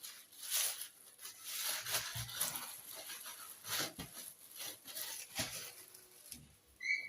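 Plastic bag rustling and crinkling in irregular bursts as oiled dough is handled and worked into it, with a few soft handling thumps. A short, high chirp sounds near the end.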